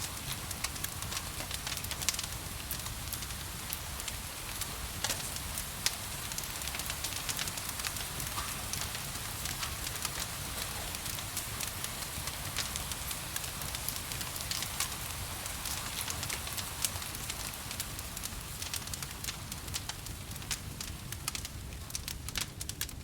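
Wood fire crackling in a fireplace, with frequent sharp pops and snaps over a steady hiss of gentle rain and a low, even rumble.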